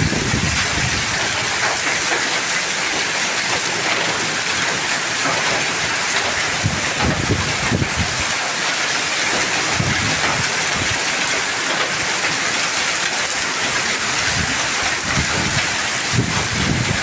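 A hailstorm: heavy rain with hail pouring down in a steady, dense hiss, with wind buffeting the microphone now and then.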